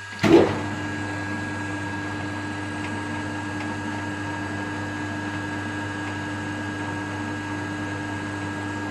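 Restored Colchester Student 6.5-inch lathe starting up in a higher gear. There is a sharp knock as it starts, then the spindle and gear train run steadily with a constant hum and whine.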